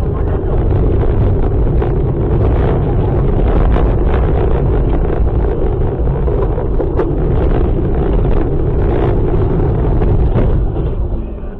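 Loud rumbling vehicle and wind noise on a dashcam microphone, full of sharp crackles and knocks. It cuts in suddenly and falls away a little before the end.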